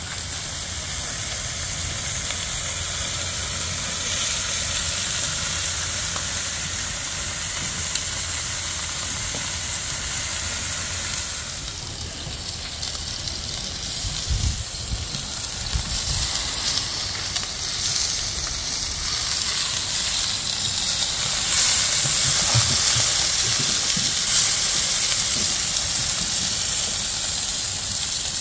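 A steady rushing hiss with a low rumble underneath, swelling a little about two thirds of the way through.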